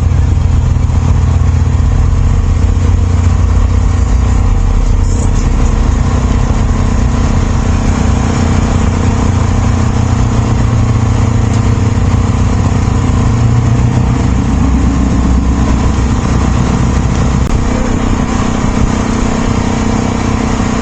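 Car engines running with a loud, low rumble as cars roll slowly past. One engine's pitch rises briefly about fourteen seconds in.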